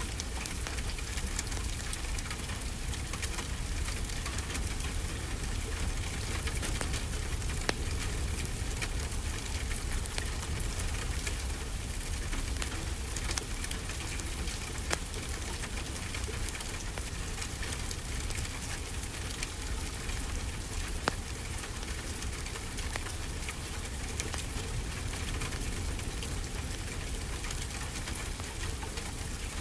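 Steady rainfall mixed with a crackling wood fire, with a low rumble underneath and a few sharper pops from the fire now and then.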